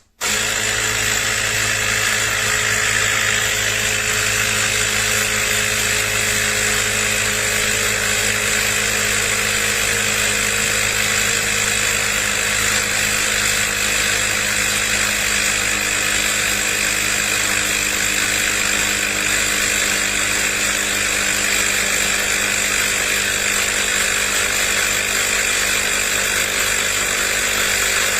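CYCPLUS 150 PSI battery-powered portable air compressor switching on abruptly and running steadily, its small motor-driven pump giving an even mechanical hum over a hiss.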